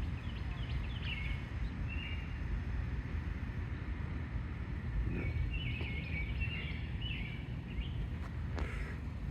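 Steady low wind noise buffeting the microphone, with small birds chirping in short runs of calls about a second in and again from about five to eight seconds in.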